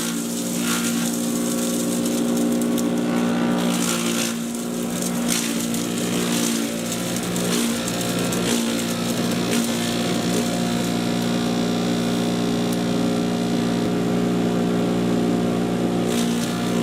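Patriot 2.5-inch, 1.5-HP electric chipper shredder running steadily with a constant motor hum, broken by scattered short knocks.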